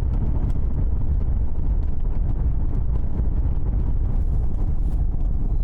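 Steady low rumble of a vehicle on the move, heard from inside or close by, with wind buffeting the microphone.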